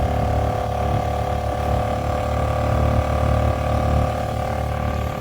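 An engine running steadily, a constant low rumble with a steady hum over it.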